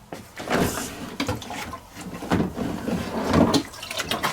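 Condensed water sloshing inside a tumble dryer's plastic pull-out water container as it is handled, with several plastic knocks.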